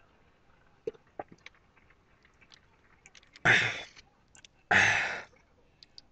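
A man's heavy gasps for breath after chugging an ice-cold soda: a few small mouth clicks, then two loud, short gasps a little over a second apart about halfway through.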